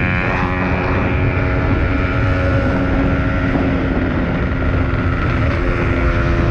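Yamaha RX King's two-stroke single-cylinder engine running steadily while the motorcycle is under way, heard from the rider's seat.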